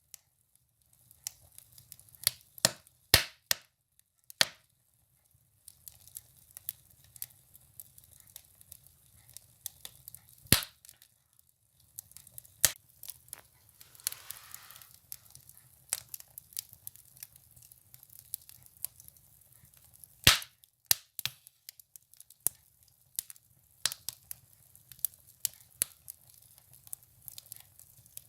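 Firewood burning in a stove, crackling with irregular sharp pops of varying strength. The loudest pops come about 10 seconds and 20 seconds in.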